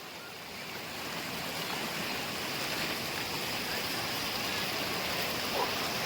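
Steady rush of waterfall water flowing over rocks, an even hiss that grows a little louder in the first second or so.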